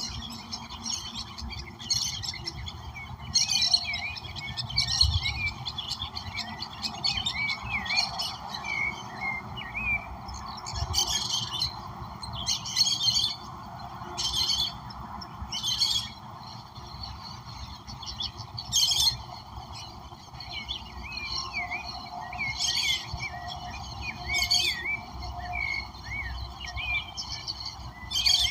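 Several wild birds calling together: short harsh calls repeated every second or two, mixed with quick twittering chirps, over a steady background hiss.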